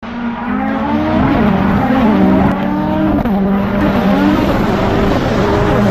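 Motor vehicle engines running and revving, their pitch rising and falling repeatedly.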